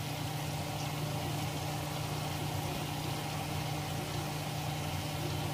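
Chicken frying in oil in a cast-iron skillet: a steady bubbling sizzle over a steady low hum.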